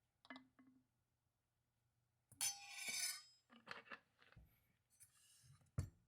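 Dishes and glassware clinking and knocking as they are handled and set down at a meal table: a few light knocks, one longer ringing clink a little over two seconds in, and a sharp knock near the end.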